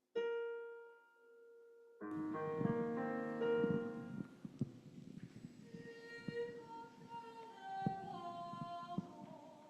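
A single piano note rings and fades. About two seconds in, a louder chord of several notes sounds, giving pitches for a choral song. A line of notes that change pitch one after another follows.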